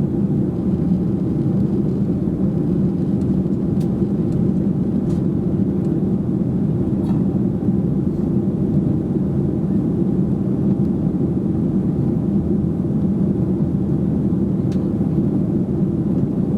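Steady in-flight cabin noise inside a Boeing 737-800 airliner: the even, low rumble of its CFM56 engines and the airflow over the fuselage, with a few faint ticks.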